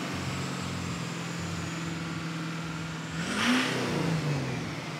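Turbocharged truck engine running steadily with a faint high turbo whine, then a short rev about three seconds in, with a rush of turbo noise as it rises and falls back.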